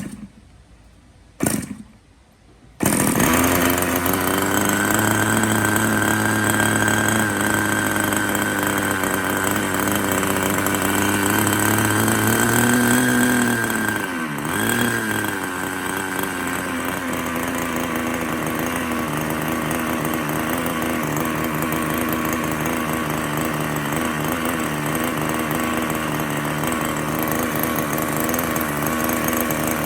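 LEO 32 small model engine being test-run: after a short burst it starts about three seconds in and runs steadily at high speed with a buzzy, chainsaw-like note. About halfway its pitch wavers and drops, then it runs on steadily at a slightly lower speed.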